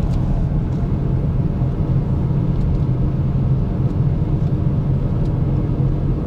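Steady low drone inside a car cabin while cruising in fourth gear: loud tyre hum, the wheels 'singing', from Nokian tyres whose variable-size tread blocks still leave a big drone, under the engine's hum.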